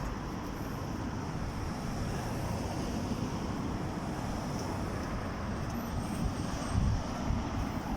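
Steady outdoor rush of sandstorm wind and road traffic, with a low rumble from the wind hitting the microphone.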